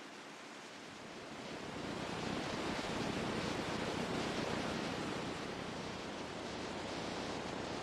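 Ocean surf: a rushing wash of breaking water that swells about two seconds in and slowly eases off.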